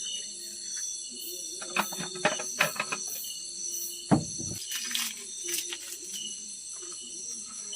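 Steady night chorus of crickets and other insects, with a scatter of close clicks and knocks and one heavier low thump about four seconds in.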